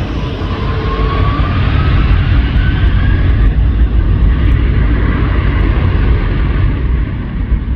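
Airbus A330 jet engines at takeoff power: a heavy, loud rumble with a whine that rises in pitch over the first three seconds, the sound growing louder about a second in.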